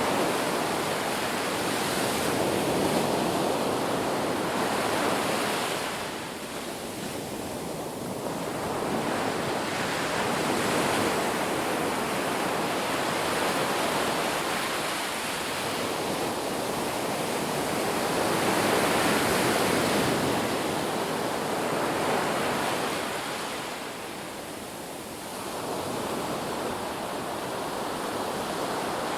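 Ocean surf: waves washing continuously onto a beach, swelling and ebbing every several seconds, with wind.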